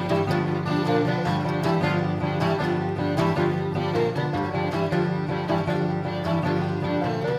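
Acoustic string band playing an instrumental passage without singing: plucked guitar and banjo notes over a steady bass line.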